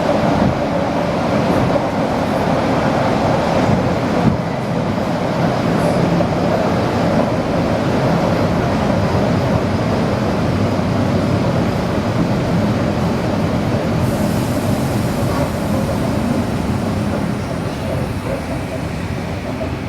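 ED4M electric multiple unit running between stations: a steady rumble of wheels on rails mixed with running machinery, with a faint held tone. It eases a little near the end.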